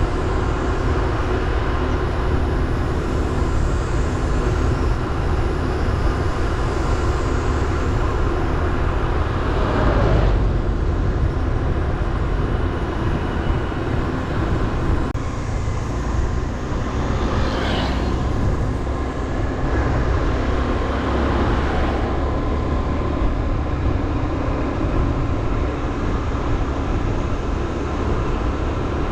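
Motorbike engine running steadily while riding, under heavy wind rumble on the microphone, with a brief louder swell about ten seconds in.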